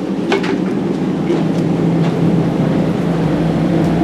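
Steady low mechanical hum inside a railroad passenger car, growing slightly louder, with a few light clicks.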